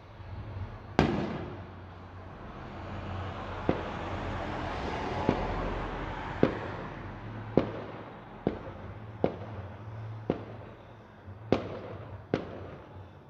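Aerial fireworks display: about ten sharp bangs of shells bursting, the loudest about a second in, then a steady string of reports roughly a second apart, over a swelling wash of hissing noise in the middle.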